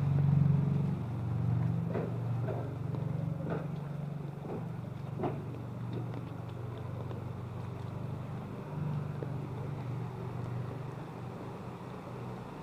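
A motor vehicle engine running with a steady low hum, loudest in the first second or so and then easing off, with a few faint clicks.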